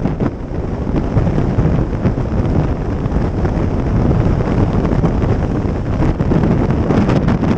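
Heavy wind buffeting on the microphone of a moving motorcycle, with road and engine noise underneath.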